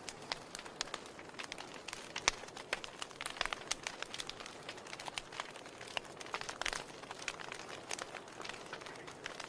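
Wood fire crackling in a fireplace: irregular sharp pops and snaps over a soft steady hiss, with a denser cluster of pops a little past the middle.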